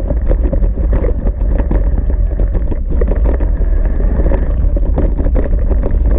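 Ride noise from a Cube Reaction Pro 400 eBike on a rough trail: wind buffeting the microphone as a heavy low rumble, with a constant clatter of quick knocks and rattles as the bike jolts over the ground, and a steady hum underneath.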